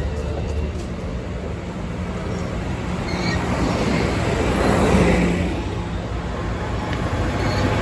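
Amtrak Surfliner passenger train moving through the station, a steady rumble of engine and wheels on rail that swells about five seconds in and again near the end.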